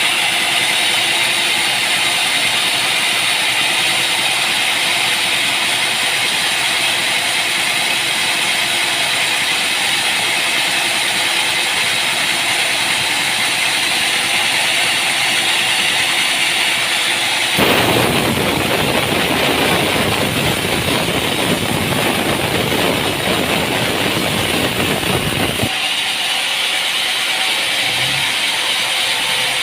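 Sawmill machinery running with a steady mechanical noise. About two-thirds of the way in it changes abruptly to a fuller, deeper rumble for about eight seconds, then drops just as abruptly back to the thinner, higher noise.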